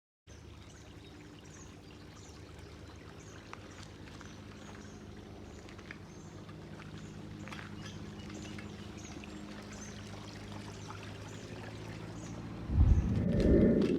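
Stream water running steadily, with faint high chirps repeating above it. Near the end, a loud low rumble on the microphone lasts about a second.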